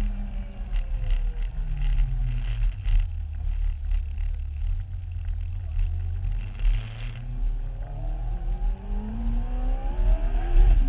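Promotive R1 Mini's small engine running, its speed dropping over the first few seconds, staying low for a while, then climbing again near the end. The owner reports an engine problem he cannot identify.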